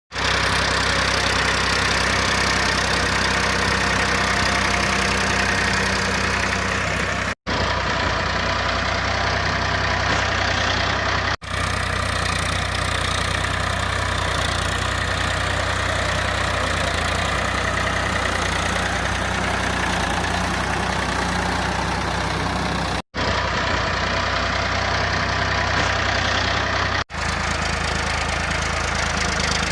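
Farmtrac 45 tractor's three-cylinder diesel engine running steadily at an even speed. The sound cuts out abruptly for an instant four times, where the recording is spliced.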